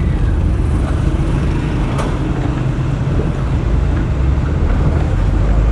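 Road vehicle and traffic noise: a steady low rumble of engine and tyres, with a brief click about two seconds in.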